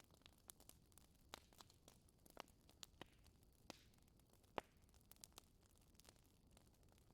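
Wood fire in a fireplace crackling faintly, with scattered small pops and one sharper pop about halfway through.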